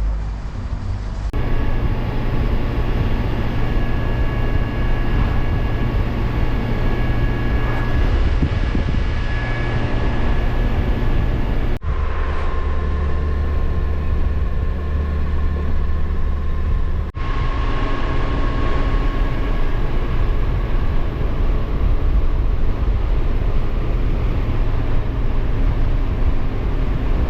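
Motorcycle riding at road speed: steady engine drone mixed with wind and road noise. The sound breaks off abruptly and resumes about a second in, about 12 seconds in and about 17 seconds in.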